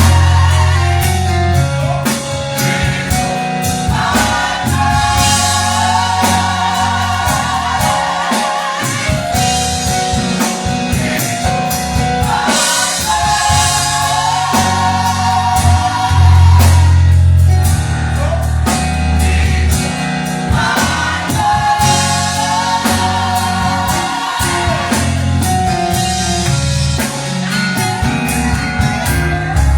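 Live gospel music: voices singing in a group with vibrato over a band, with a heavy bass line and a drum kit keeping the beat.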